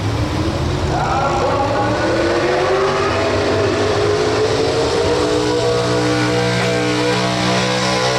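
Pro Stock 4x4 pulling truck's engine running hard during a pull, its pitch climbing slowly and steadily.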